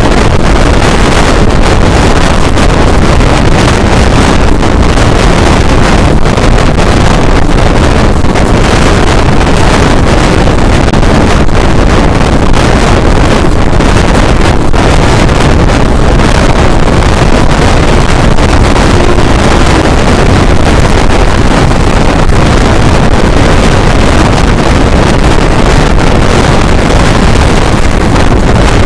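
Loud, steady roar of a passenger train running at speed, with wind buffeting the microphone.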